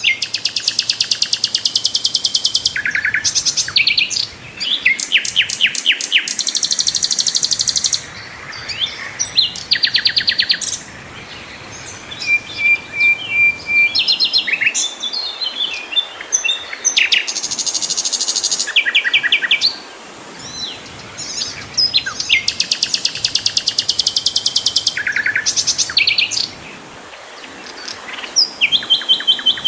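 Sikatan londo flycatcher singing in full voice: a series of high, very rapid trills, some held for about two seconds, broken by short notes and brief pauses.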